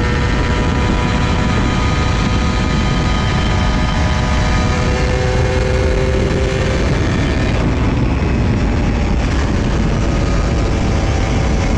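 Honda Dash 125 single-cylinder two-stroke motorcycle engine running while being ridden at a fairly steady pace, its note shifting slightly in pitch, over a dense low rumble.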